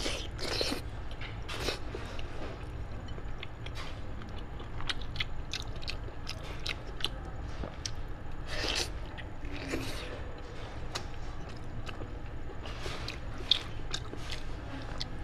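A person chewing and biting meat torn from a roasted sheep's head, with irregular short clicks and crunches from the mouth.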